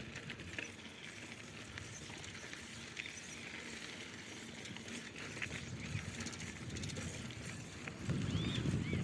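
Quiet outdoor ambience with a few short bird chirps, the clearest near the end. A low rumble rises about eight seconds in.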